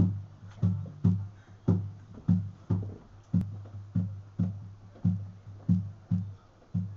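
Music played on a plucked guitar: a repeating pattern of low notes, about two a second, each struck sharply and then fading.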